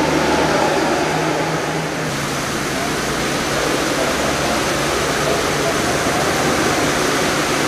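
Heavy rain with a steady rushing hiss, and a motorcycle engine humming low underneath.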